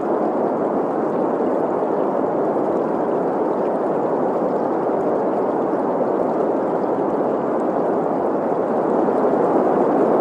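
Green noise, a steady hiss centred in the middle pitches, layered with a flowing stream. It holds an even level throughout.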